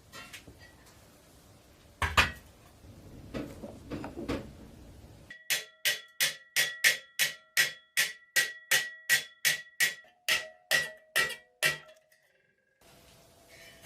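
A hammer tapping on a metal part of a steel Tonka toy truck, about twenty regular blows at roughly three a second, each leaving a short metallic ring. A single knock and some softer clatter come before the hammering starts.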